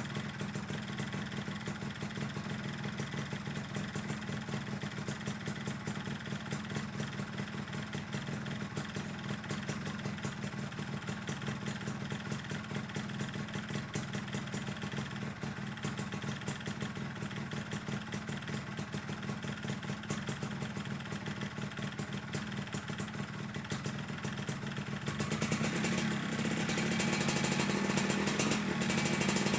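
Yamaha RXZ 135's two-stroke single-cylinder engine idling as it warms up, with a rapid, even pulsing beat and an exhaust that the owner says is leaking. The engine picks up and runs louder near the end.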